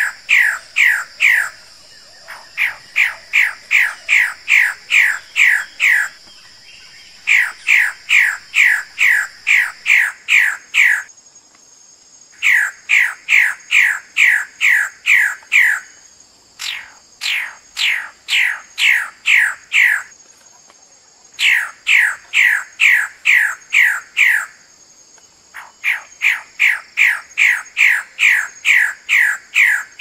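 A bird-of-paradise calling in bouts of loud, evenly repeated notes, each note dropping in pitch, about two to three a second. Each bout lasts three to four seconds with a short pause between, over a steady high hum.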